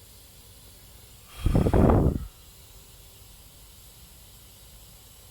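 A single loud burst of hissing air, about a second long, a little over a second in.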